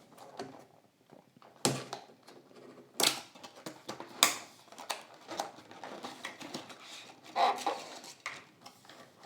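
Hard plastic blister packaging of a diecast model car being handled and opened: a series of sharp plastic clicks and crackles, the loudest three spaced about a second apart.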